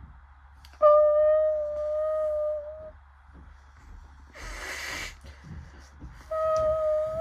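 Bridgestone Altus Newing washing machine's motor whining at a steady pitch, cutting in suddenly and out again after about two seconds, with a short hiss about four seconds in, then the whine starting again near the end.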